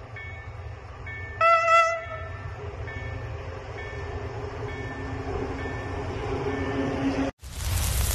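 Electric locomotive's horn gives one short blast about a second and a half in, while the approaching freight train's rumble slowly grows louder. The train sound cuts off abruptly near the end and a loud hissing whoosh takes over.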